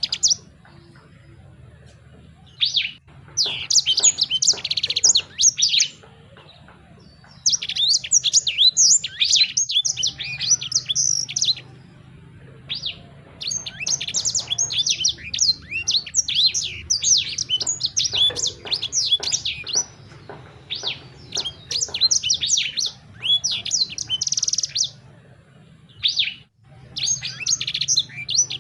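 A songbird singing fast, high, chirping and trilling phrases, each a few seconds long with short pauses between them, over a faint low hum. It is the kind of bird-song recording played to caged birds to coax them into singing.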